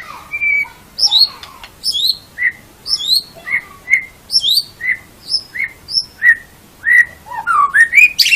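White-rumped shama (murai batu) singing a run of clear whistled notes, about two a second, high falling notes alternating with lower ones, ending in a quick rising series of notes.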